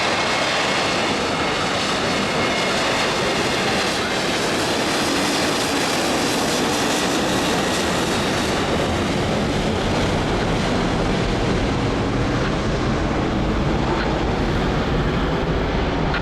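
Jet airliner's engines at takeoff power as it climbs away, a loud steady rush of noise. A thin whine of engine tones fades out over the first half, while the deep rumble grows stronger toward the end.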